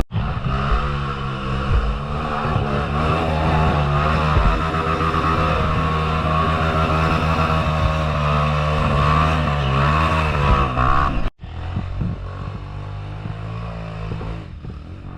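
Motorcycle engine running, its revs rising and falling. The sound breaks off abruptly about eleven seconds in, then picks up again a little quieter and fades toward the end.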